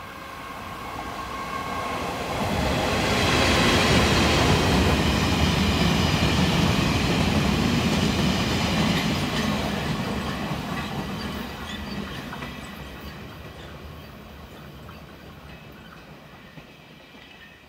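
Taiwan Railways E328 electric locomotive hauling a train of grain hopper wagons through the station without stopping. The rumble of the train grows as it approaches, is loudest for about six seconds as the wagons roll past on the rails, then fades steadily as the train draws away.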